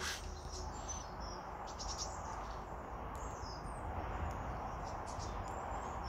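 Many small birds chirping, with short high chirps coming in quick succession over a steady background hiss.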